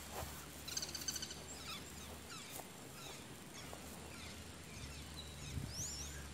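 Faint birdsong outdoors: a short rapid trill about a second in, then scattered chirps and a pair of rising whistled notes near the end, over a low steady hum that drops out for a couple of seconds midway.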